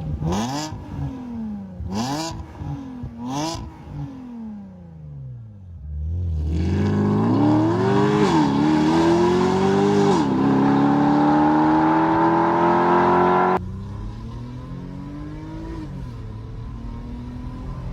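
Porsche Panamera 970 running through an Armytrix valvetronic catback exhaust. It gives three quick revs that die away, then a hard acceleration whose pitch climbs steadily, dropping back twice at upshifts. The loud note cuts off suddenly near the three-quarter mark and gives way to a quieter engine note that rises and falls once more.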